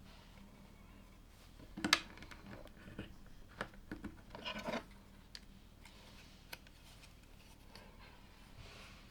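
Plastic LEGO pieces being handled and snapped together: a sharp click about two seconds in, the loudest, then scattered clicks and a brief rustle of pieces just before the five-second mark.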